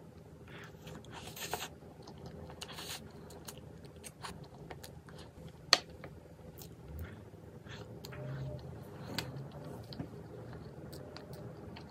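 A person eating: chewing and crunching bites, with scattered small clicks and one sharp click about halfway through.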